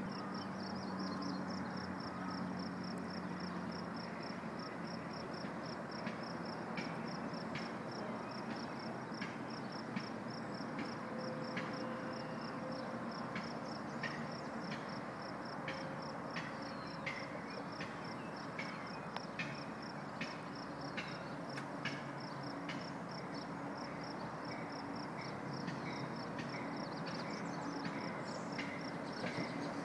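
An insect chirping in a rapid, even pulse of about two to three high-pitched chirps a second, over a steady low background hum.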